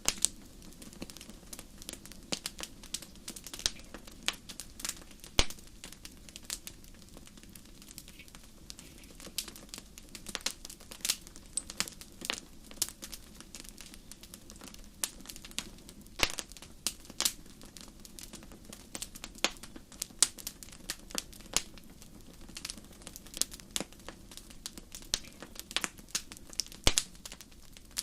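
Wood fire crackling in a fireplace: irregular sharp pops and snaps, a few louder than the rest, over a steady low rumble of the burning.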